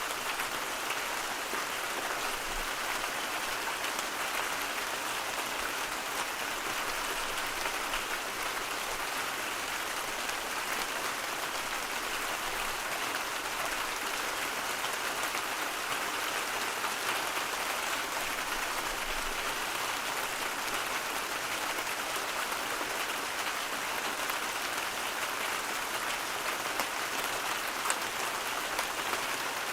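A steady white-noise hiss that stays even throughout, with a single faint tick near the end.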